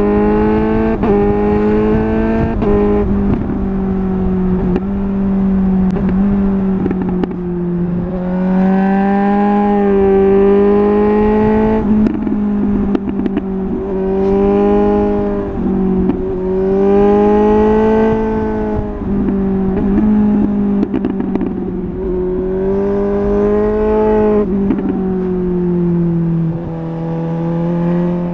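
Suzuki GSR 750 inline-four under way through a MIVV double-gun exhaust, held at a fairly steady engine speed, its pitch swelling and easing a little every few seconds and dropping slightly near the end. Short crackles break in now and then.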